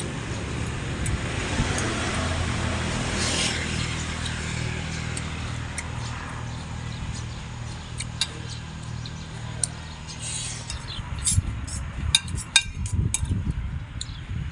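A low engine hum running steadily, fading out about eight seconds in, followed by a string of sharp clicks and knocks near the end.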